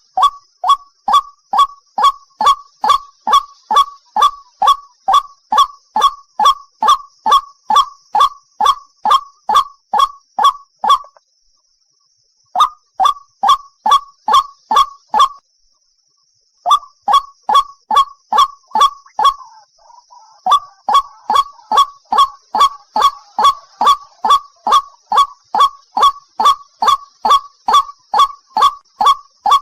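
White-breasted waterhen calling: a long run of short repeated notes, about three a second. The run breaks off twice for a second or so before resuming. About two-thirds of the way through, a fainter overlapping call joins briefly.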